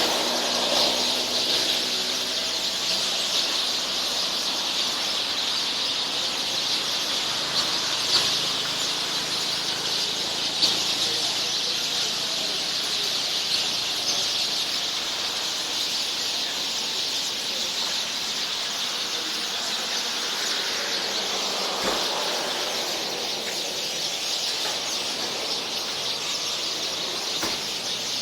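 A large flock of birds in a tree chattering and squealing all at once, a dense, steady, high-pitched din with no single call standing out.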